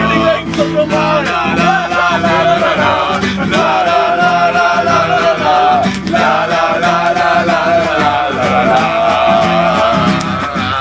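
Acoustic guitar strummed in a steady rhythm while voices sing a wavering melody along with it.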